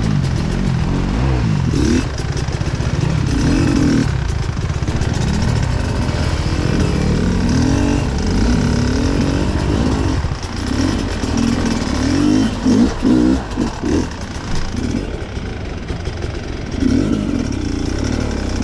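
Enduro motorcycle engine revving up and down under constantly changing throttle, its pitch rising and falling. Past the middle it turns choppier, with short blips of throttle between dips.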